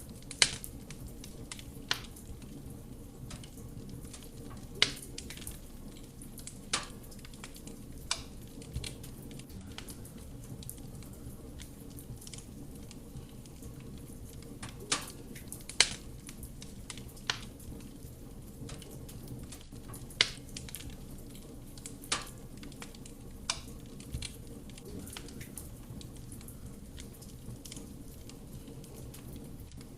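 Wood fire burning in a fireplace: a steady low rush of flame with sharp, irregular crackles and pops from the burning wood, a dozen or so in the span.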